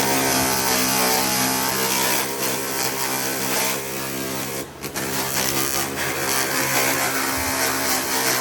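A power tool's motor running steadily, with a brief drop about two-thirds of the way through.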